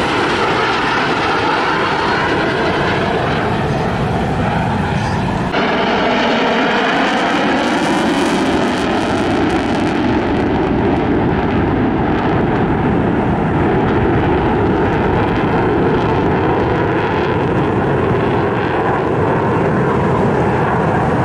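Loud, steady engine noise of an airplane flying by, with tones in it slowly sliding in pitch as the aircraft moves. The sound changes abruptly about five and a half seconds in.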